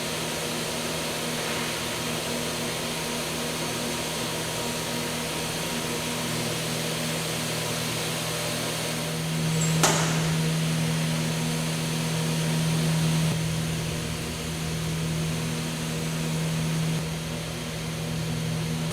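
Processing machinery running with a steady low hum over a broad hiss, and one sharp click about halfway through.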